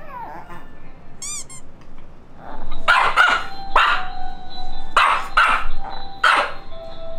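Pomeranian barking: a string of sharp barks starting about two and a half seconds in, an alarm bark at what she takes for someone arriving. Background music runs under it, with a short falling tone at the very start.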